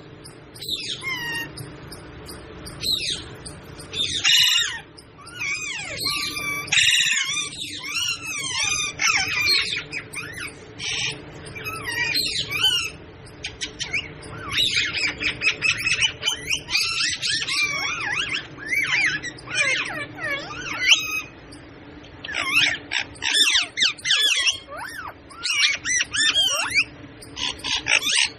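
Parrot calling in a long, rapid run of warbling, quickly gliding notes with short breaks.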